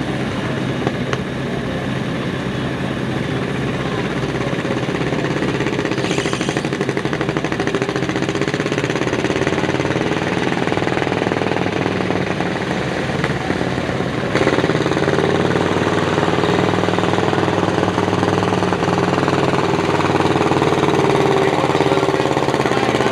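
John Deere 50's two-cylinder engine running hard under load while pulling the sled, steady and loud, getting louder a little over halfway through.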